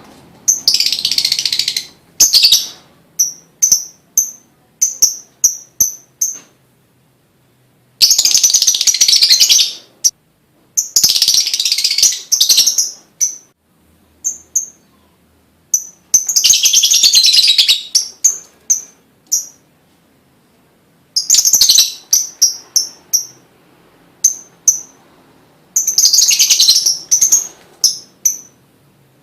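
Lovebird singing: about seven bursts of fast, high, chattering trills, each a second or two long, separated by runs of short, sharp repeated chips and brief pauses.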